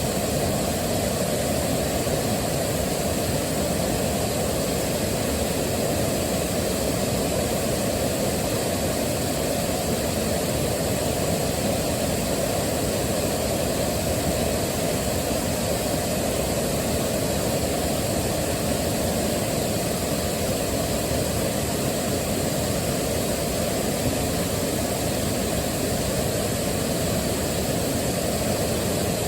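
Waterfall rushing: a steady, low rush of falling water that holds an even level throughout.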